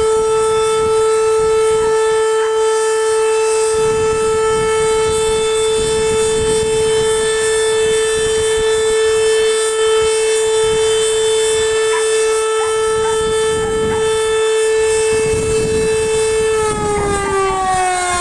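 A siren sounding one steady, unwavering pitch, then starting to wind down with its pitch falling slowly near the end.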